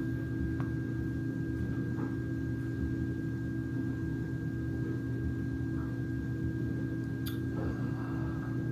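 Steady indoor hum of several held tones, including a thin high whine, with a couple of faint soft clicks.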